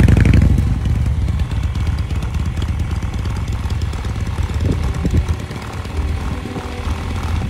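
Motorcycle engine running, loud at first and then settling to a steadier, lower level after about half a second.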